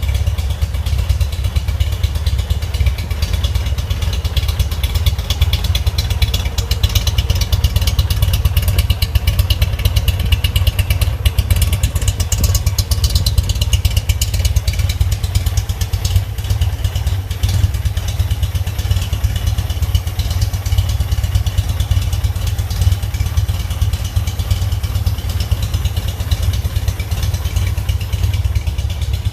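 Air-cooled VW Type 1 flat-four stroker engine (1766 cc, twin Weber 40 DCNF carburettors) idling steadily through a four-tip Abarth-style exhaust, with a deep, even low pulsing.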